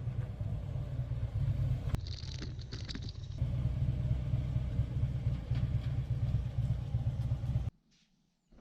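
Harley-Davidson V-twin motorcycle running on the road, a steady deep rumble mixed with wind noise on the microphone; it cuts off abruptly near the end.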